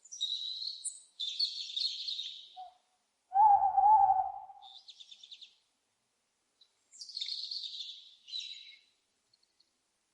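Owls calling: bursts of raspy, high-pitched screeches in three groups, with one louder, lower, wavering hoot-like call in the middle.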